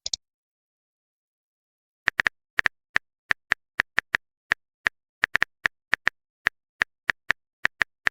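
Typing sound effect: a run of short, identical key clicks, about three or four a second at an uneven pace, starting about two seconds in.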